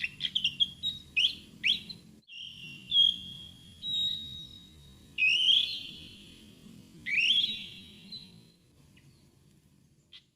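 Fantail calling: a string of squeaky whistled notes that sweep sharply upward, with a few held whistles in between, falling silent near the end. A faint low rumble sits underneath.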